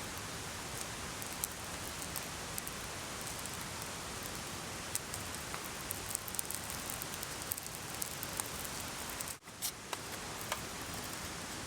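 Steady water noise with many small sharp crackles and ticks scattered through it. The sound drops out abruptly for a moment about nine seconds in, then resumes.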